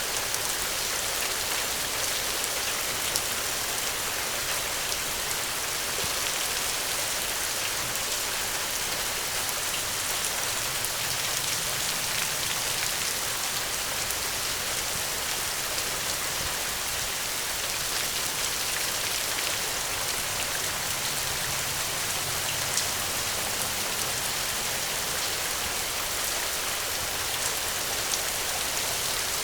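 Steady rain falling, an even, unbroken hiss with a few faint sharp ticks.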